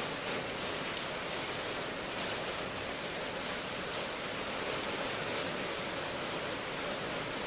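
Steady rain ambience: an even hiss of falling rain.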